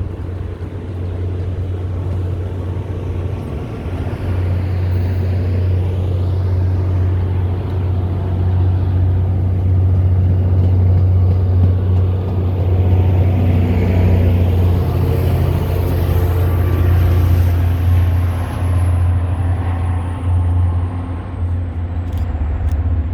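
Diesel locomotive of an MBTA commuter train running with a steady low drone; a faint high whine slowly falls in pitch over the second half.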